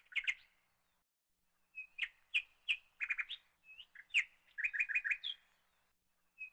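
Small birds chirping faintly: short, high chirps in quick runs, with a pause of about a second and a half near the start.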